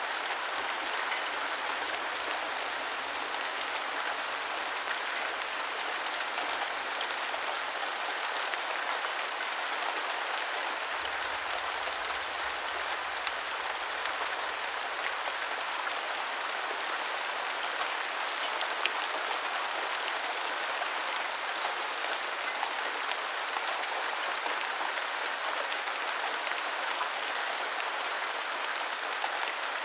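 Steady rain falling, an even hiss of drops with scattered small pattering clicks.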